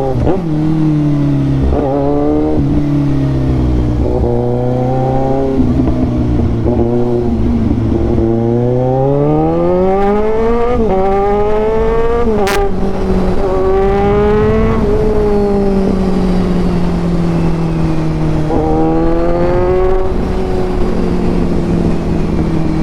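Kawasaki Ninja 1000's inline-four engine through a full-system Austin Racing exhaust, riding in traffic. It runs low with a few short throttle blips, then revs up in pitch about eight seconds in and eases slowly back down toward the end. There is a single sharp click about halfway through.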